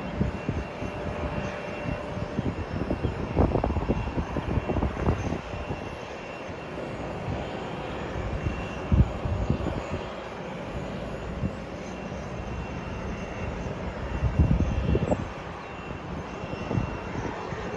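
Airliner engines running with a steady hiss and a faint high whine. Gusts of wind rumble on the microphone several times.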